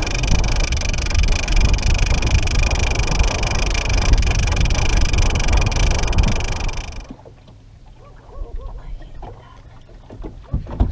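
Boat motor running with a steady high whine over heavy wind rumble on the microphone; both cut off abruptly about seven seconds in, leaving it much quieter.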